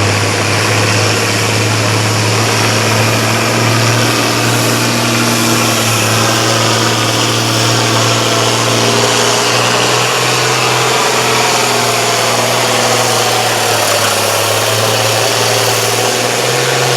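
Competition pulling tractor's engine running hard at a steady pitch under heavy load as it drags the weight sled down the track.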